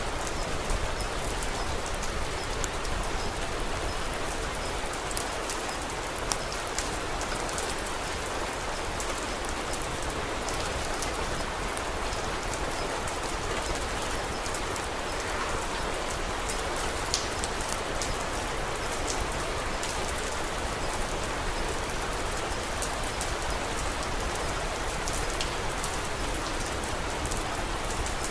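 Steady rain falling: a continuous, even hiss with scattered sharp little clicks throughout.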